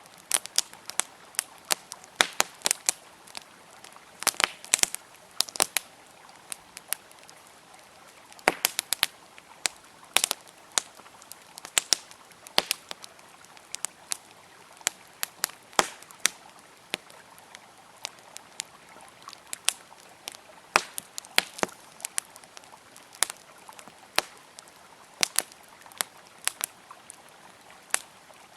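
Wood campfire crackling, with irregular sharp pops and snaps several times a second over a faint steady rush of flowing river water.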